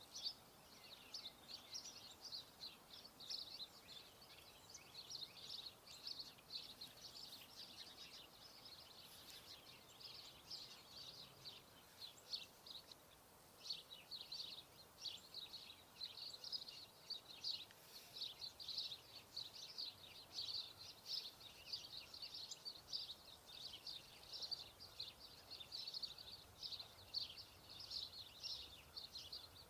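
Small birds chirping in a dense, continuous, high-pitched chatter of short, quick notes.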